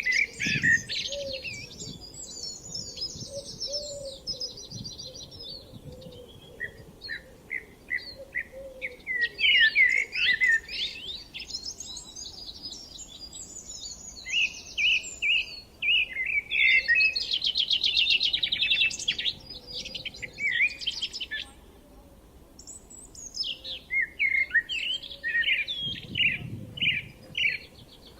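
Songbirds singing: several high chirping and trilling phrases overlap, coming in bursts with short lulls between them.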